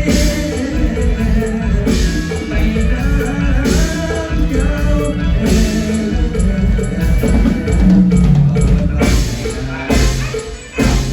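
Band music with a drum kit keeping a steady beat, in the style of Thai lam phloen; it dips briefly near the end.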